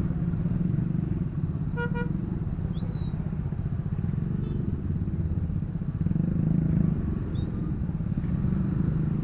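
Motorcycle engine running steadily while riding in traffic, with a short horn beep about two seconds in.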